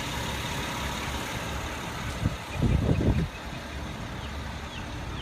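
Vehicle engine idling steadily, with a brief louder low rumble about two and a half seconds in.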